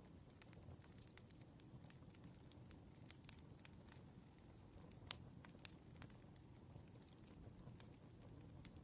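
Faint crackling of a burning wood fire: irregular small pops and snaps over a low steady rumble, with one sharper pop about five seconds in.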